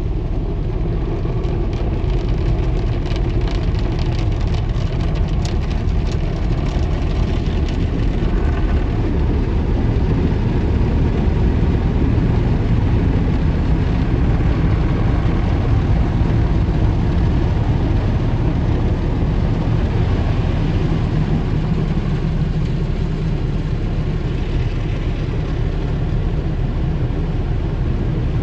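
An automatic car wash running over a car: a steady low rumble with a hiss of water spray, and a crackly patter in the first several seconds.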